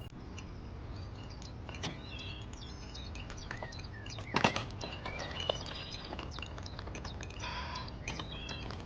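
Birds chirping, with many short scattered calls over a low steady rumble and one louder, sharp sound about four and a half seconds in.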